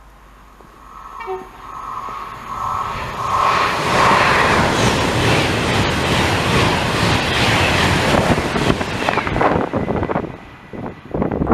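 A train passing through the station: the noise builds over a couple of seconds, stays loud for about six seconds, then drops away near the end, followed by gusts of wind buffeting the microphone in its wake.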